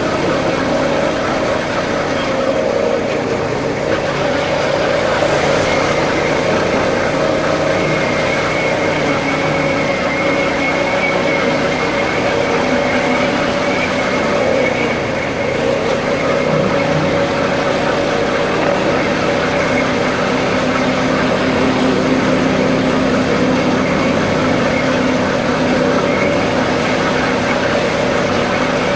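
Royal Enfield Bullet single-cylinder motorcycle engine running steadily at an even road speed, with road and wind noise.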